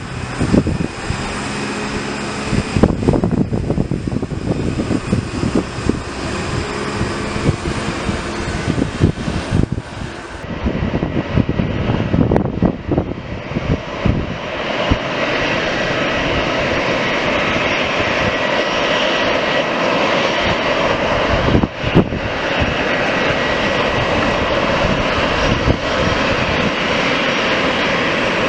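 Airplane engines running, growing louder about halfway through and then holding steady.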